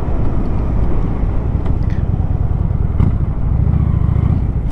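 Motorcycle engine running steadily at road speed, with wind rumbling across the microphone.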